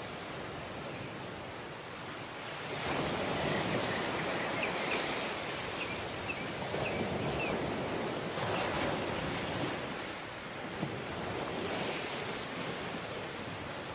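Surf breaking on a beach, the wash of the waves swelling and falling back about every three seconds. A few faint, short, high chirps come in a few seconds in.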